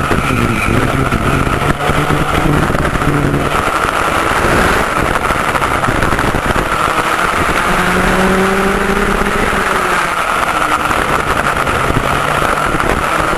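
McCulloch MC91 single-cylinder two-stroke kart engine with an expansion pipe, running hard at racing speed, heard on board. Its pitch shifts up and down as the kart brakes and accelerates, with steady wind and track noise underneath.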